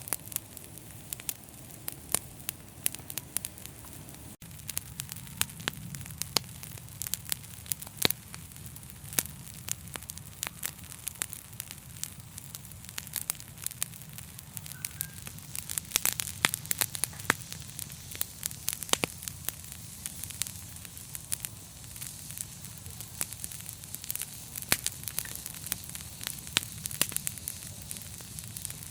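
Wood fire burning in a fireplace: a steady crackle of frequent sharp pops and snaps over a low rumble of flames, with a momentary dropout about four seconds in.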